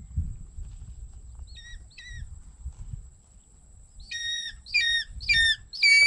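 A bird gives two short calls, then from about four seconds in a run of loud, harsh squawking calls, about two a second.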